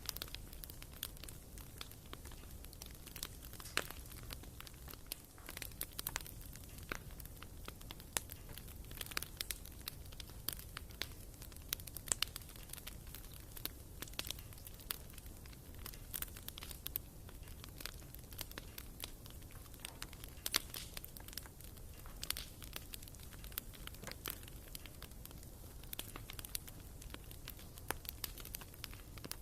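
Wood fire burning in a fireplace, crackling with frequent irregular sharp pops over a low steady rumble.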